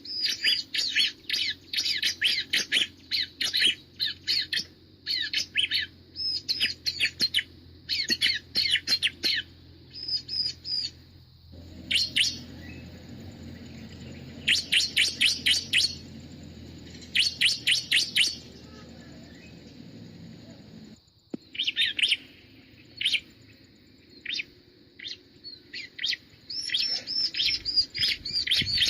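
Bar-winged prinia (ciblek) calling: bursts of rapid, sharp, high chirps repeated throughout, each run lasting about a second. A low steady rumble sits underneath from roughly a third of the way in until about two-thirds through, then stops suddenly.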